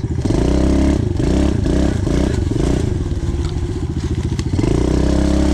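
Pit bike engine revving up and down as it is ridden, its pitch rising and falling several times, with a few knocks.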